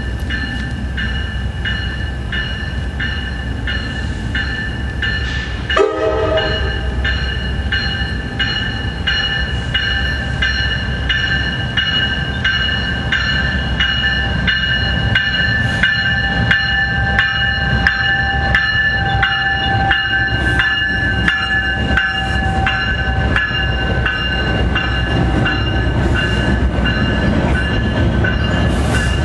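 Commuter train rolling past on the tracks: a steady low rumble with a regular clicking of wheels over rail joints and steady high-pitched ringing tones over it. A short pitched note sounds about six seconds in.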